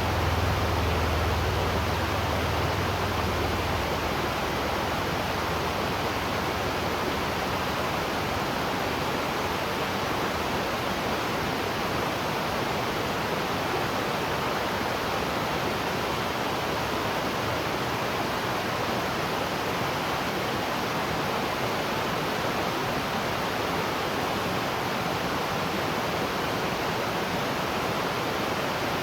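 Waterfall: a steady, even rush of falling water. A low rumble underneath fades out over the first few seconds.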